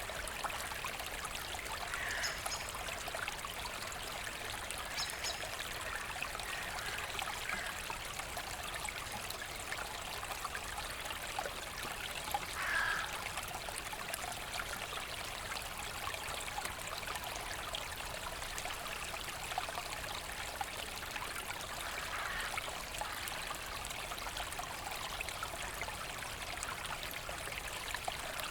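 Forest brook flowing and trickling steadily, with a louder splashing gurgle now and then, the clearest about 13 seconds in.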